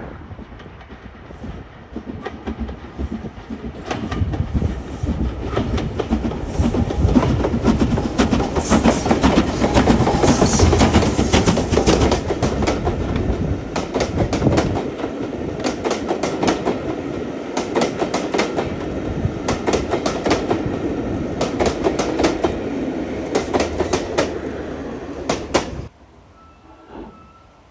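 A train passing close by: a rumble that builds to a peak, then a run of sharp clicks as the wheels cross the rail joints, cutting off suddenly near the end.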